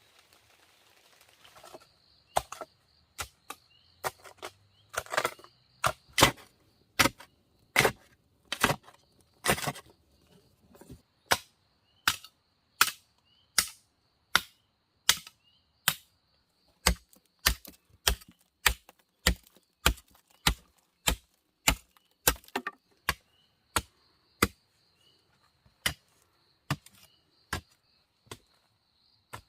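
Repeated sharp chopping strikes on wood, roughly one and a half a second, starting about two seconds in. An insect keeps up a steady high-pitched buzz behind them.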